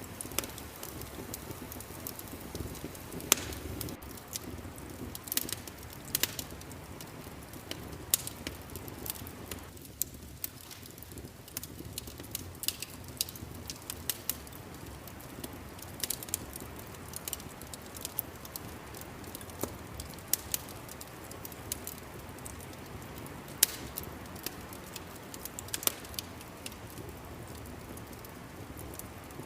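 Wood fire crackling in a fireplace: a steady low rumble of burning with irregular sharp pops and snaps, several a second at times.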